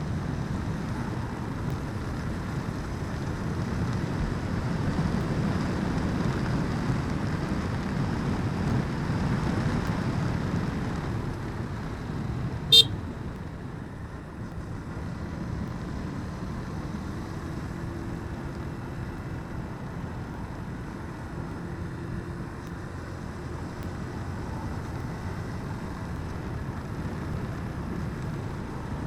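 Steady motorbike riding noise, engine and road rumble, louder for the first ten seconds or so, with one sharp click about thirteen seconds in.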